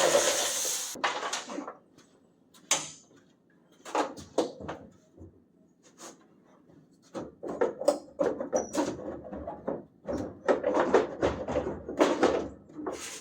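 A motor's steady running cuts off about a second in, followed by scattered knocks and clatter, sparse at first and then coming thick and irregular in the last few seconds, like parts and tools being handled.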